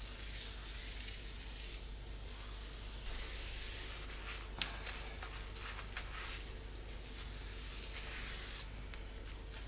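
Cleaning sounds: a soft rubbing, hissing noise that swells and fades, like a cloth or brush working a surface, with a couple of light clicks.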